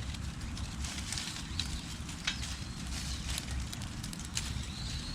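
Newly lit fire of dry leaves crackling, with irregular sharp pops over a steady low rumble.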